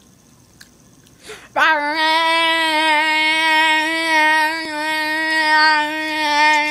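A voice holding one long sung note at a steady pitch for about six seconds, starting about a second and a half in.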